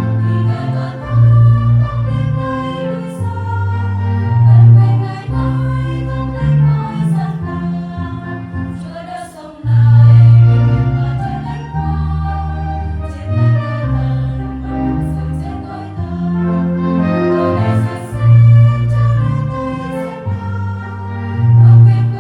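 A Vietnamese Catholic hymn: choral-sounding singing over sustained keyboard chords with a strong bass line.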